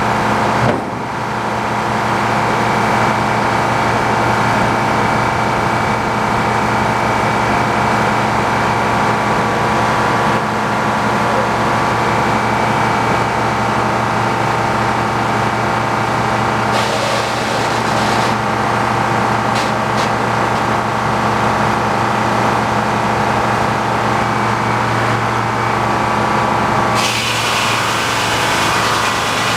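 Tractor engine running steadily under load, driving the sawmill, a constant pitched hum. A hissing rush joins it for about a second and a half in the middle and again near the end.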